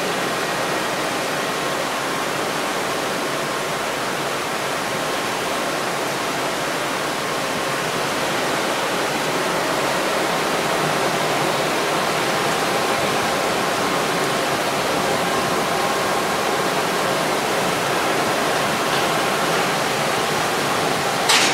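Heavy rainstorm pouring down on a ship at sea: a steady, dense hiss of rain. A brief sharp knock sounds right at the end.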